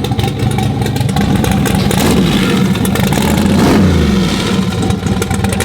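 Truck engine revving, rising in pitch and loudness to a peak about three and a half seconds in, then falling away.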